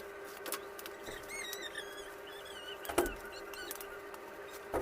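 A parcel being unpacked: a few light clicks and knocks, the sharpest about three seconds in. Between about one and four seconds there is a run of high, warbling squeaks, and a faint steady hum runs underneath.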